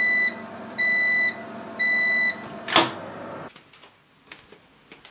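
Microwave oven running with a steady hum and giving its three end-of-cycle beeps about a second apart, signalling that the reheating is done. About three seconds in comes a sharp click and the hum stops.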